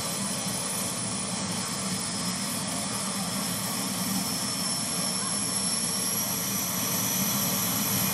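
Jet truck's turbine engine running with a steady, high whine that rises slightly in pitch as it grows gradually louder, the afterburner not yet lit.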